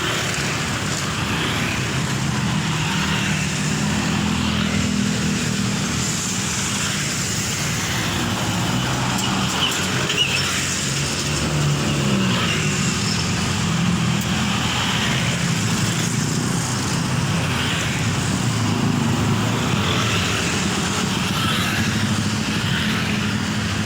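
Mitsubishi Fuso Fighter truck's diesel engine running on a busy road amid passing traffic, its pitch sliding as the engine revs and changes speed about twelve seconds in.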